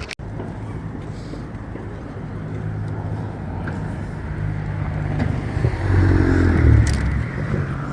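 Motor vehicle engine running with a steady low hum, growing louder about six seconds in as it passes close by.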